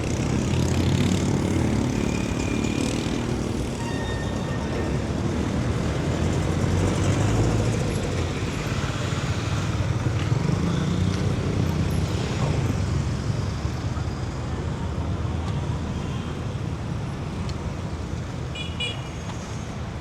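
Busy city street traffic: engines of passing vehicles running, rising and fading as they go by, with a few short horn beeps near the end.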